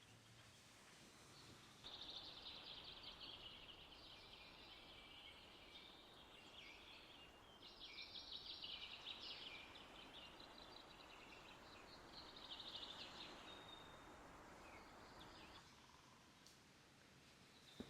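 Faint birdsong: irregular runs of rapid, high trilled notes over a soft outdoor hiss, which starts suddenly about two seconds in and stops a couple of seconds before the end.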